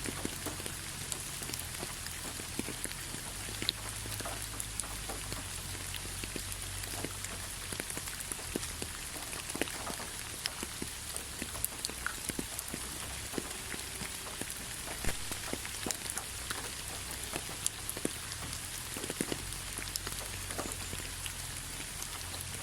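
Light rain falling steadily, with many separate drops pattering and ticking on a surface over an even hiss.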